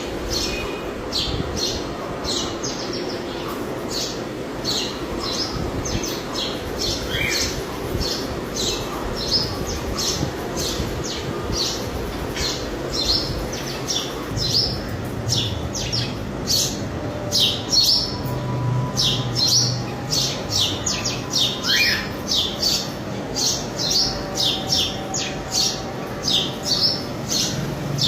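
Male sparrow chirping over and over in short, high chirps, about two a second, coming faster in the second half.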